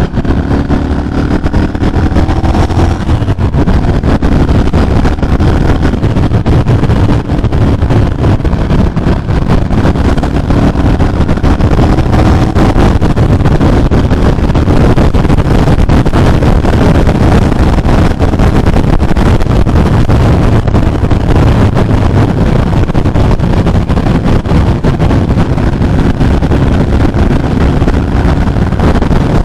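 Ducati Monster 796's air-cooled L-twin engine running at highway speed, its note climbing in the first few seconds, largely buried under a steady rush of wind on the microphone.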